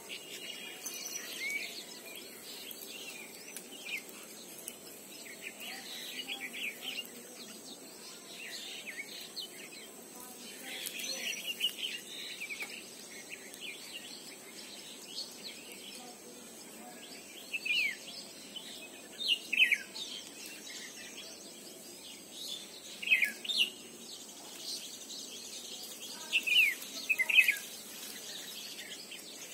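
Wild birds chirping and calling in open countryside, with several louder, sharp downward-sliding calls, mostly in pairs, in the second half.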